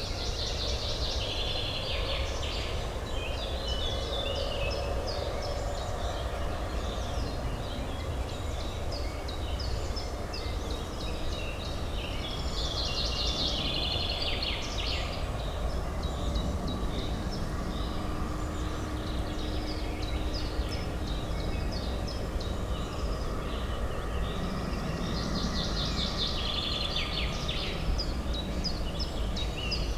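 Songbirds chirping in three spells of quick, high notes, over a steady low hum of distant city traffic.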